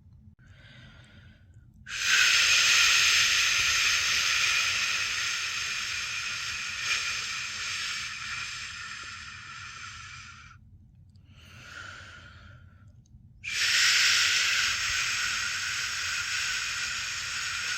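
A person making a long, drawn-out 'shhh' shushing sound to soothe a newborn to sleep. It is held for about eight seconds and slowly fades, with short, softer shushes before and after. A second long shush begins near the end.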